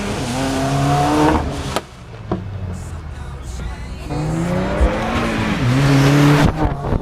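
A car engine revving hard twice, its pitch climbing steadily each time and then cutting off sharply, the first rev ending under two seconds in and the second near the end.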